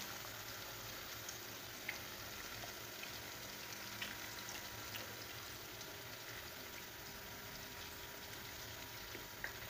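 Faint steady sizzle of chicken pieces frying in ghee in a karahi, with a few small pops.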